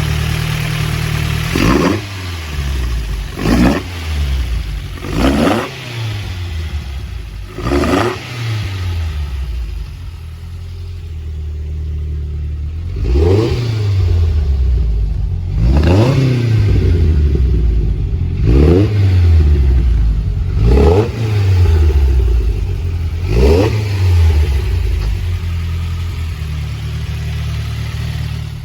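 Mazda MX-5 NC's 2.55-litre high-compression four-cylinder on BBR individual throttle bodies, running steadily and blipped sharply about nine times. Each rev rises fast and falls back more slowly, with a quieter steady stretch near the middle.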